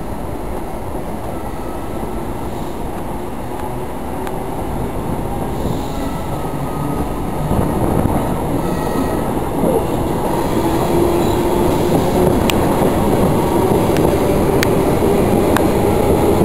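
Electric train running, heard from inside a carriage: a steady rumble of wheels on rails that grows louder as the train leaves the platform and picks up speed. Three sharp clicks come in the last few seconds.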